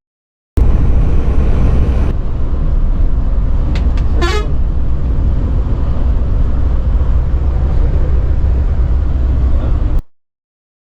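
Scania multi-axle coach on the move, a loud steady low rumble of engine and road noise, with a short horn toot about four seconds in. The sound cuts in just after the start and cuts off suddenly near the end.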